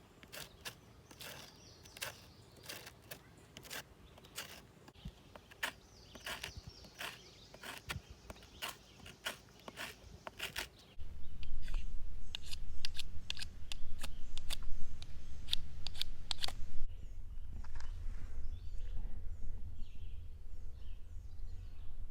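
Irregular sharp clicks and crackles through the first half and on to about two-thirds in. From about halfway a loud low rumble comes in, with birds chirping faintly in the last few seconds.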